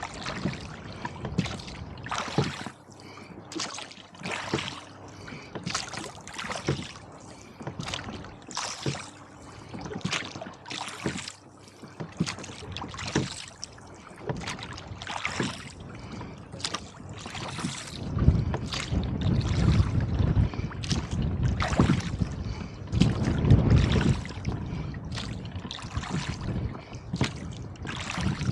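A rowboat being rowed through choppy water, with frequent short splashes and slaps of water around the hull and oars. From about two-thirds of the way in, gusting wind buffets the microphone with a loud, low rumble.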